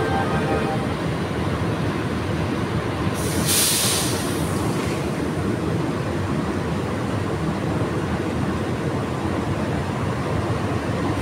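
Passenger train standing at a station platform, its diesel engines running with a steady noise. A loud hiss starts about three seconds in and lasts over a second.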